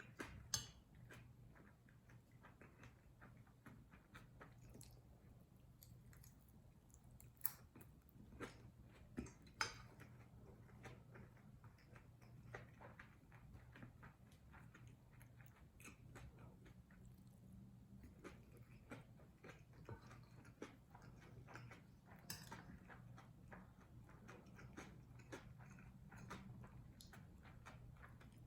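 Faint chewing of a mouthful of kimchi fried rice, with soft wet ticks throughout and a handful of sharp clicks of a utensil against the dish, a few close together in the first third and one later on.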